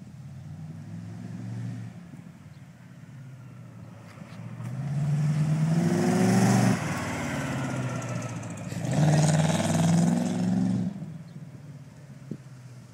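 Chevrolet Corvette C3's V8 accelerating past. Its engine note climbs twice, with a brief dip between, then fades away.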